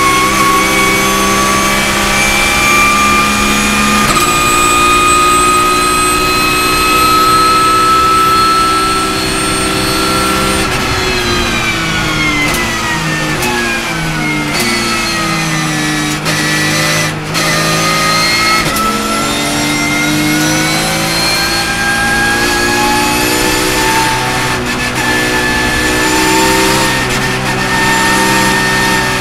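Porsche flat-six engine heard from inside the race car's cockpit, pulling hard in sixth gear with its pitch climbing slowly. About ten seconds in the pitch falls steadily as the car brakes and shifts down for a corner, then from about eighteen seconds it climbs again as the car accelerates out in fourth gear.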